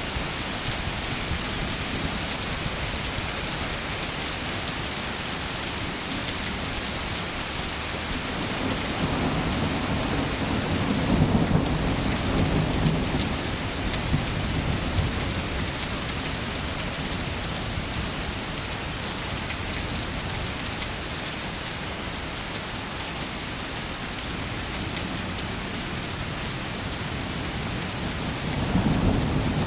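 Steady rain falling, with low thunder rolling in twice, swelling about ten seconds in and again near the end.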